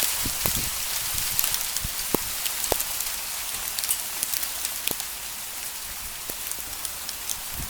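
Hail falling with rain in a storm: a dense steady hiss studded with sharp clicks and a few heavier knocks as hailstones strike surfaces, easing slightly toward the end.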